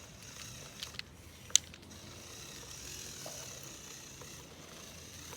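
Lego Technic 6x6 tow truck's electric motor and gears running with a faint steady whine, with a few light ticks and one sharp click about a second and a half in.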